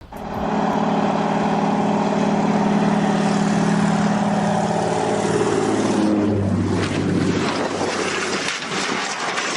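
Ultralight helicopter's small engine and rotor running with a steady drone; about five seconds in the pitch drops and the sound turns rough and noisy with scattered knocks.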